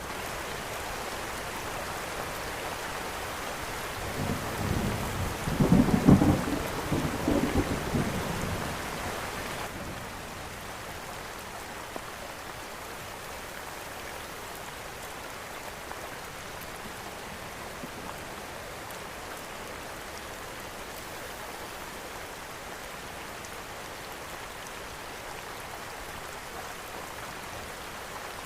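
Steady rain hissing, with a roll of thunder that builds about four seconds in, peaks around six seconds and dies away by about ten seconds.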